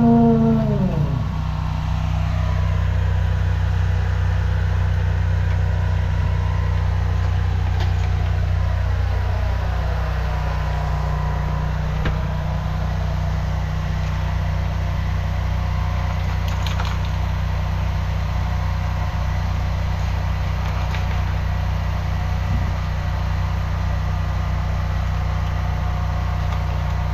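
High-pressure drain jetter's engine dropping from high revs to a steady idle about a second in, then running steadily.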